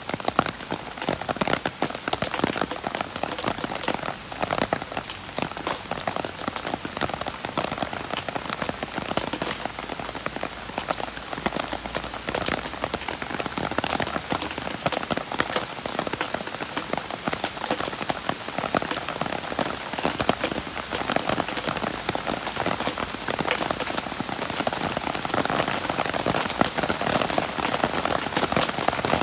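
Steady rain falling on a surface, a dense hiss of countless raindrop ticks.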